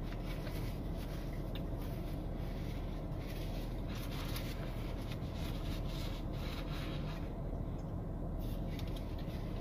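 Steady low hum inside a car cabin, with faint rustling and chewing as food is eaten.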